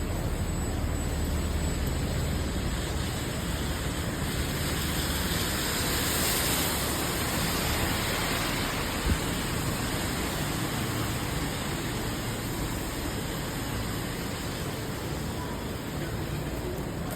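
Steady rain hiss on a wet city street, swelling for a few seconds from about four seconds in, with a single sharp click about nine seconds in.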